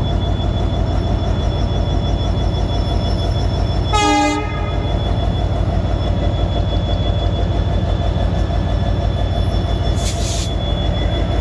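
WDG4D diesel locomotive's 16-cylinder EMD 710 two-stroke engine running steadily with a pulsing rumble, heard from the cab. A short horn toot about four seconds in, and a brief hiss near the end.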